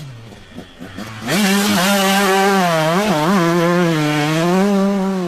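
Two-stroke motorcycle engine revving: after a quieter first second it is opened up sharply to high revs and held there, with two quick dips in the middle, then eases off near the end.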